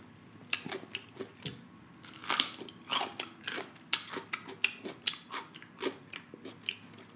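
Raw cucumber being bitten and chewed close to the microphone: a string of irregular crisp, wet crunches, a few each second.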